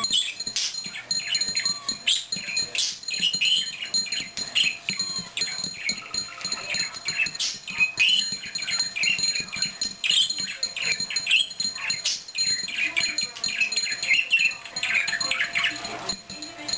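Pet parakeet chattering and warbling rapidly and without pause while courting the bell in his cage, mixed with small knocks against the bell.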